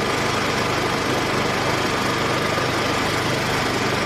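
Formula One car engine running steadily, a dense even hum with a fast low pulsing and no revving.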